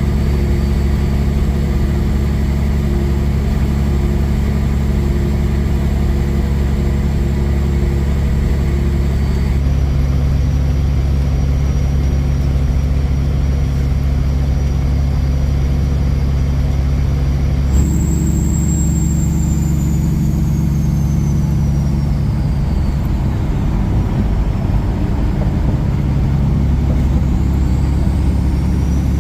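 Kenworth semi truck running down the road: a steady diesel drone and low road rumble. The engine note shifts abruptly twice. Faint high tones glide down and later back up.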